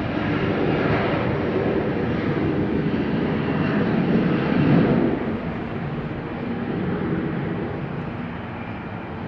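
Jet airliner passing close by, its engine roar building to a peak about five seconds in and then fading away.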